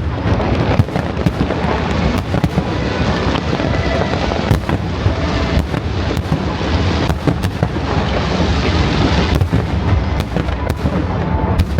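Aerial fireworks display going off continuously: rapid overlapping cracks and bangs over a constant low rumble of shell bursts, with no let-up.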